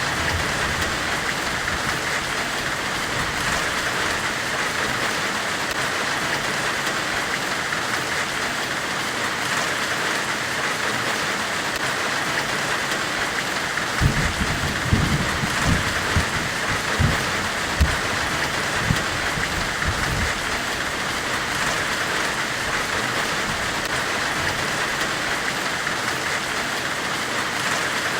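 Steady, even forge hiss of the kind heard during forge welding, with a brighter band in the upper middle. About halfway through, a cluster of about ten irregular low, soft thuds comes over the hiss for several seconds.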